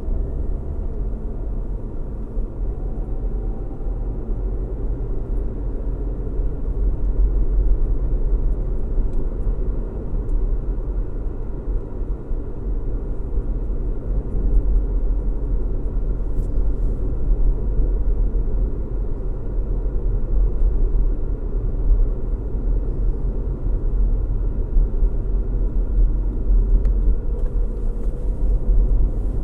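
Car driving along a road: a steady low rumble of engine and tyre noise, with faint rising tones near the start and end.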